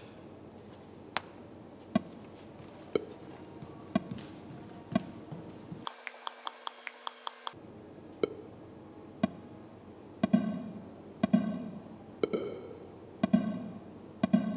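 A test signal plays through two loudspeakers about 34 m apart, the far one reaching the listener roughly 100 ms late, so the delay is noticeable. First comes a sharp click about once a second, then a quick run of clicks, then plucked guitar-like notes about once a second, each dying away.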